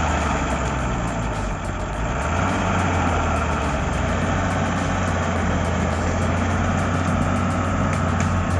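Bulldozer's diesel engine running steadily under load, a deep even drone.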